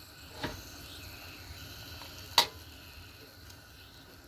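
Water with bacon in it boiling in a pan, a steady faint bubbling hiss, with two sharp taps of a utensil against the pan: one about half a second in and a louder one about two and a half seconds in.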